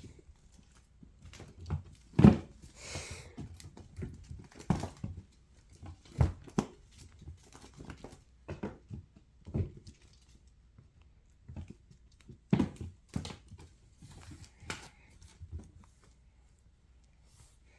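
Bengal kittens playing: irregular soft thumps and scuffles, the loudest about two seconds in, with a brief rustle soon after.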